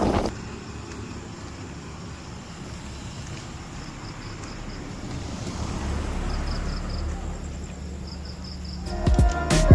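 A low, steady rumble and hiss that swells up and fades again in the middle. Music comes in near the end.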